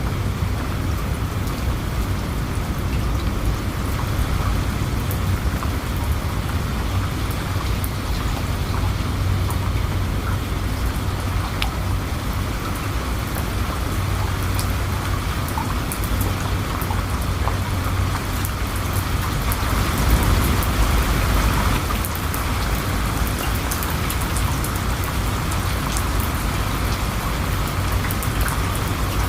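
Steady rainfall with scattered sharp drop ticks over a constant deep rumble, which swells briefly about twenty seconds in.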